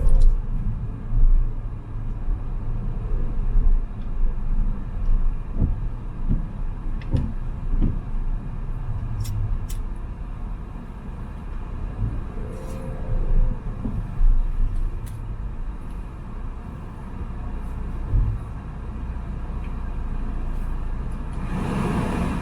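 BMW M3 driving on wet city roads: a steady low engine and tyre rumble with a few short thumps from bumps in the road, and a rise of rushing noise near the end.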